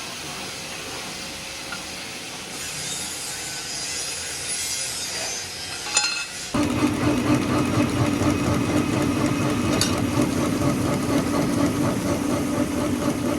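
Factory machinery: a hissing, scraping noise, then about six and a half seconds in a louder, steady machine running with a held low hum.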